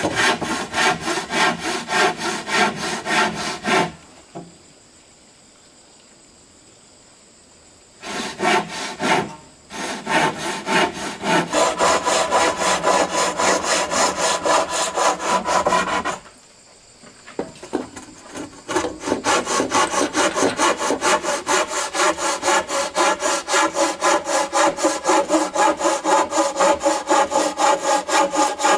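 A handsaw cutting wood in quick, even back-and-forth strokes. It stops twice, for a few seconds each time, then carries on.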